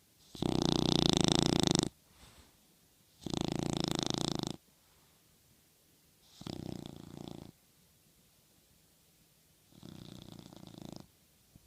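Small toy-breed dog snoring in its sleep: four long, rattling snores about three seconds apart, the first two loud and the last two noticeably quieter.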